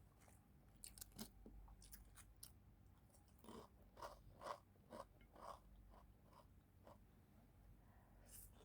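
Faint crunching of fish crackers being bitten and chewed. A few sharp crackles come first, then a run of crunches about two a second.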